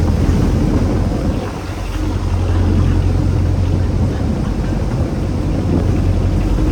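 Fishing boat's engine running steadily, a low drone over a rush of wind and water noise.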